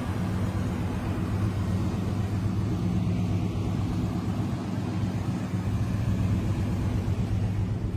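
Car engine running steadily, an even low drone with no revving.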